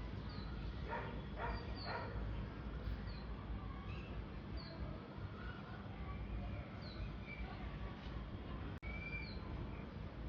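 Small birds chirping over and over in short falling notes, with a dog barking three times about a second in, over a steady low outdoor rumble.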